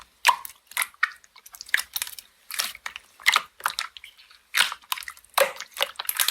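Slime being pressed and squeezed by hand, making irregular crackling pops and squishes.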